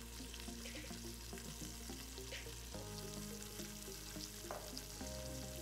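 Pork blade steak sizzling faintly in hot olive oil in an Instant Pot on the sauté setting, with quiet background music.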